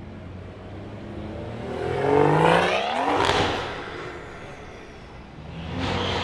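A car accelerating hard past, its engine pitch climbing to a loud peak about two to three seconds in and then falling away. A second car starts to accelerate near the end.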